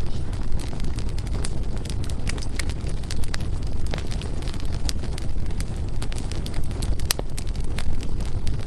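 Wood fire burning, a steady low rumble of flame with frequent sharp crackles and pops from the burning firewood.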